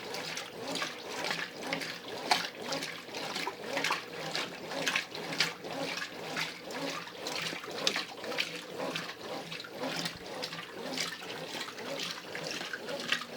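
Brastemp Ative 11 kg washing machine agitating its wash load in the Heavy cycle: water and clothes slosh in repeated surges, roughly one every second, as the agitator swings back and forth.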